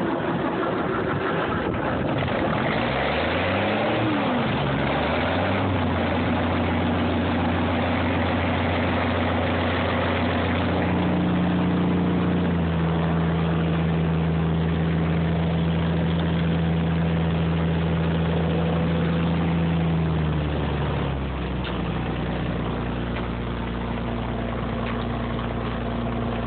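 M35A2 deuce-and-a-half's multifuel turbo-diesel inline-six catching on a cold start after a shot of ether, burning mostly used motor oil. It picks up speed unevenly in the first few seconds, runs at a raised speed, then settles to a lower idle about 21 seconds in.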